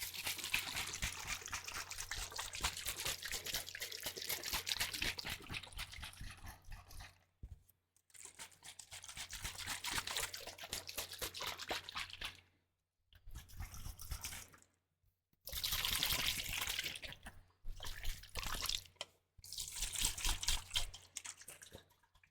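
Liquid sloshing and crackling inside a bottle of wood polish worked close to the microphone, in six bursts with short pauses between, the first the longest.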